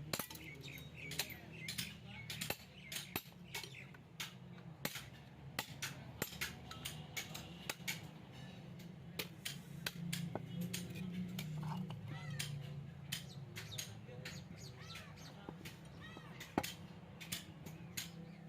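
Irregular metal knocks and clinks, many a second at times, of refrigerator compressors being broken open for scrap; birds chirp in the background.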